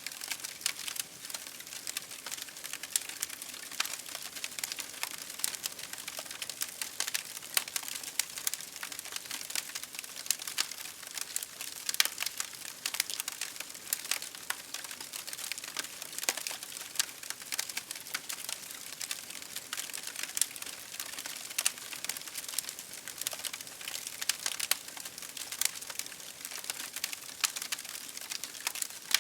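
Campfire crackling: a steady hiss with dense, irregular small pops and snaps, a few of them sharper than the rest.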